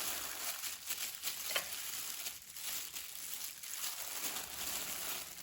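Dry breadcrumbs crackling and rustling as a raw chicken cutlet is pressed and turned in them to coat it, a steady fine crackle of many small ticks.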